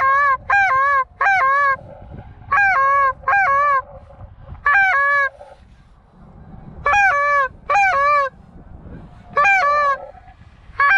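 Goose honking: about ten loud honks in runs of two or three with short pauses between, each one a quick upward break into a short held note.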